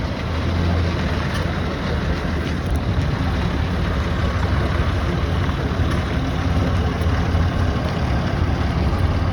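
Heavy engine running steadily, with a constant low drone and no change in speed.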